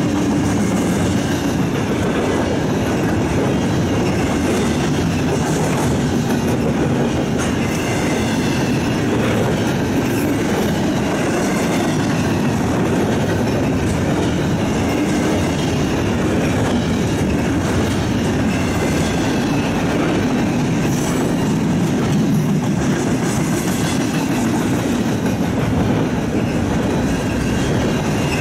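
A double-stack intermodal container train's cars rolling past, their steel wheels rumbling and clattering steadily over the rails.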